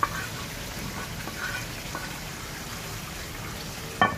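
Mutton and gravy sizzling steadily in a karahi, with a wooden spoon knocking on the pan at the start as tomatoes are scraped in, and a louder sharp knock near the end.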